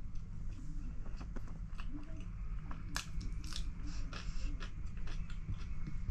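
Raw cucumber slices being bitten and chewed: a run of crisp, wet crunches, the sharpest about three seconds in.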